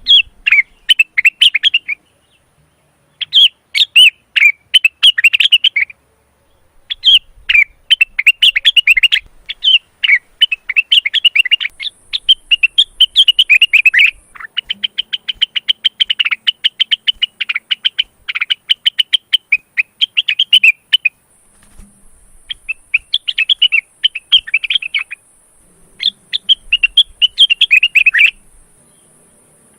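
A male blue-winged leafbird (cucak wilis/rengganis) in breeding condition singing. Its song comes as fast runs of sharp chattering notes in phrases a few seconds long, broken by short pauses.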